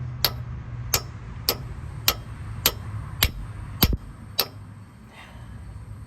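Hammer blows driving a part into place: eight evenly spaced strikes, a little under two a second, stopping after about four and a half seconds.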